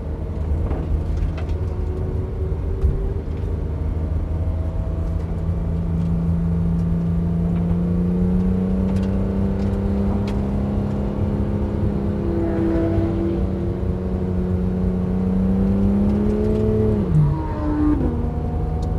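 Porsche 911 GT3 flat-six engine heard from inside the cabin, pulling at low revs while the car gathers speed slowly. Its note rises gradually, then drops sharply near the end, as at a gear change.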